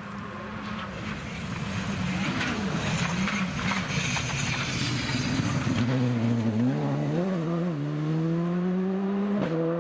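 Rally car engine approaching at speed and getting louder, then revving higher and higher under acceleration through the second half.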